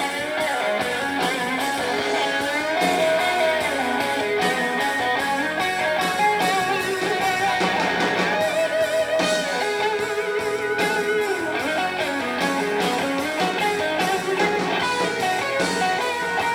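Rock band playing live through an instrumental break: an electric guitar plays a lead line with bent, wavering notes over the drums and the rest of the band.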